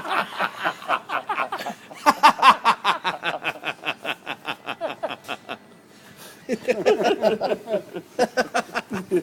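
Hearty laughter following the punchline of a joke: a quick run of chuckles a few times a second, a brief pause past the middle, then more laughing.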